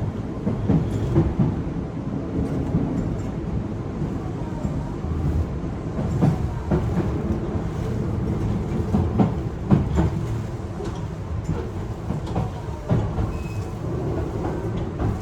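Yokohama Kosoku Railway Y000 series electric train running, heard from inside the car: a steady low rumble of wheels on track with scattered clicks and knocks over the rail.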